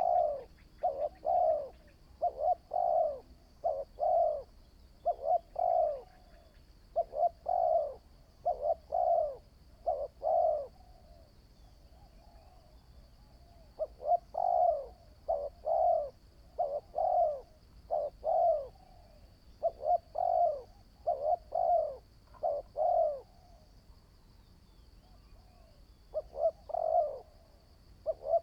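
Spotted dove cooing in long series of short, repeated coos, broken by two pauses of a few seconds each.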